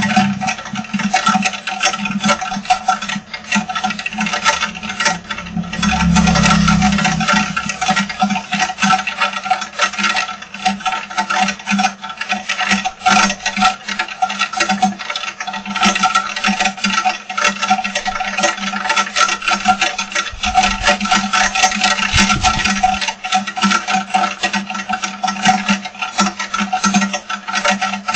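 Heavy rain falling: a dense, irregular crackle of countless drop impacts, over a steady low hum.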